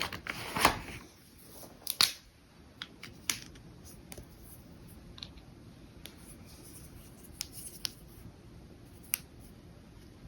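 A pen and paper being handled on a desk: a couple of loud knocks and a rustle in the first two seconds, then scattered sharp clicks and taps about once a second.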